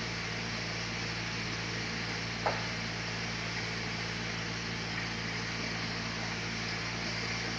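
Sawmill machinery running steadily: a constant motor hum under a steady hiss, with one short click about two and a half seconds in.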